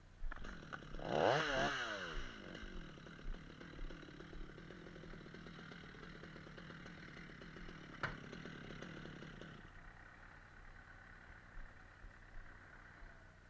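Two-stroke chainsaw revving up sharply about a second in and dropping back, then running steadily at lower speed and cutting off near the end. A single sharp knock comes about eight seconds in.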